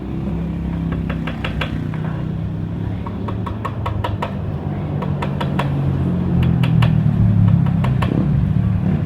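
A motor engine running steadily, its pitch wavering and rising a little in the second half, with many quick metallic clicks and clinks on top.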